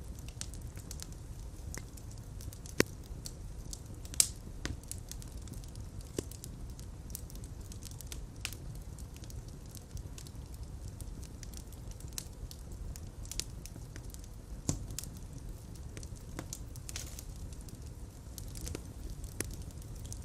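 Fire crackling in a fireplace: a steady low rumble of flames with irregular pops and snaps, and a few sharper pops about three, four and fifteen seconds in.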